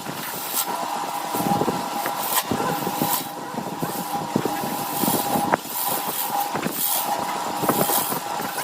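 Wood lathe running with a steady hum, while a turning tool cuts the spinning workpiece in irregular scraping strokes.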